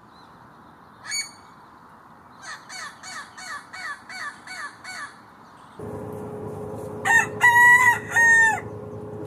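Feral rooster crowing once, a loud cock-a-doodle-doo in three parts near the end. Before it come one short call and then a quick run of about eight short calls, roughly three a second. A steady low hum starts about six seconds in.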